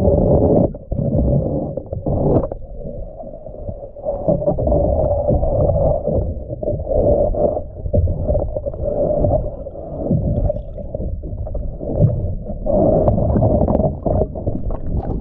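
Muffled underwater rumble and gurgling of a diver's exhaled bubbles during hull cleaning, swelling and fading every second or two, with a few sharp clicks.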